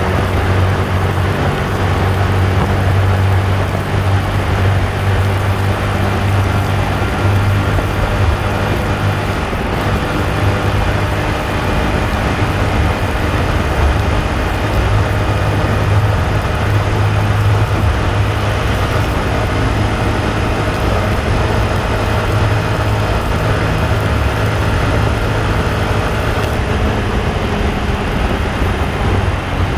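Yamaha R15 V2's 150 cc single-cylinder engine running steadily at highway speed, about 90 km/h, with a strong low hum and wind and road noise over it, inside a road tunnel.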